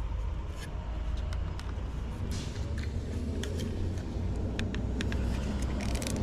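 Scattered light clicks and taps of plastic yoke steering-wheel parts being handled and pressed together so a piece clips in, over a steady low rumble.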